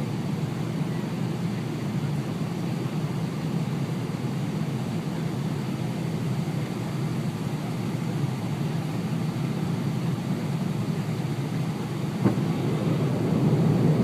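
Steady cabin roar of an airliner on approach, from the jet engines and the air rushing past the fuselage. About twelve seconds in there is a short knock, and after it the roar grows a little louder.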